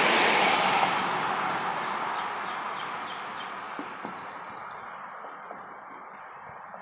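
A passing vehicle's rushing noise fading steadily away, with a series of short bird chirps heard over it in the middle.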